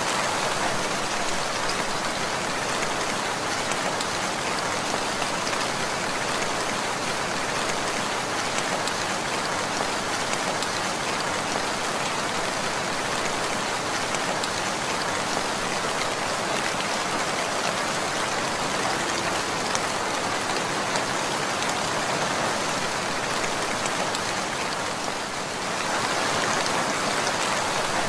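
Steady rain falling, a dense, even hiss that eases slightly for a moment near the end.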